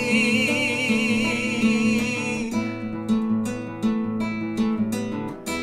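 Acoustic guitar strumming chords over a steady bass line in a folk song. A held, wavering note rings over it for the first half, then dies away, leaving sharp guitar strums.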